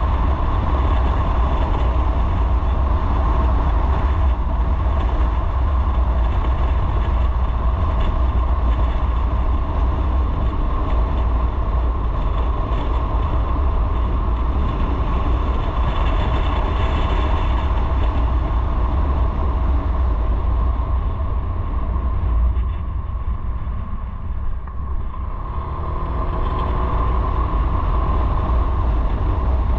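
Motorcycle on the move: steady engine and road noise with heavy wind rumble on the microphone, easing off for a few seconds about three-quarters of the way through before building again.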